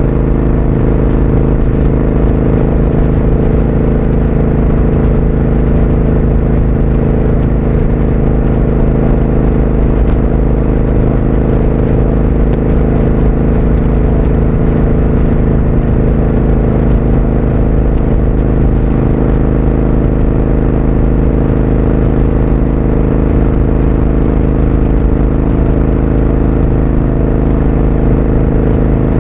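Triumph Speed Twin 1200's parallel-twin engine running at steady revs while the motorcycle is being ridden, with no rise or fall in engine speed.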